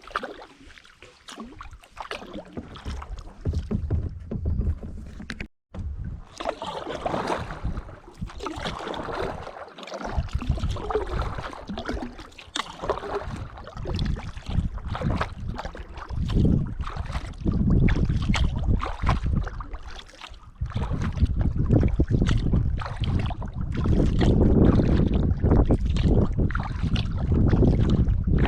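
Kayak paddling: paddle strokes splashing and water moving along the hull, with wind buffeting the microphone as a low rumble that gets heavier in the second half.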